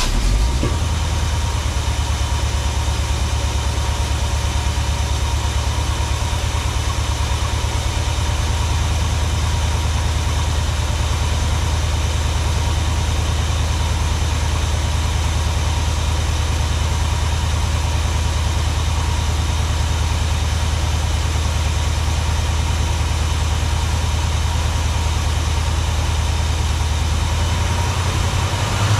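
Chevrolet 400 small-block V8 in a 1963 C10 pickup catching just after the start and then idling steadily on a freshly fitted HEI distributor, its first run in months and not yet timed.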